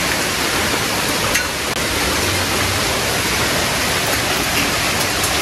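Heavy downpour: a dense, steady hiss of rain, with a few faint sharp ticks.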